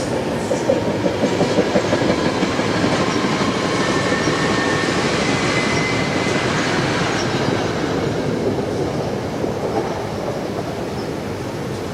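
Train rolling past: steady wheel-on-rail noise with a quick run of clicks over rail joints in the first couple of seconds and a faint wheel squeal in the middle, easing off toward the end.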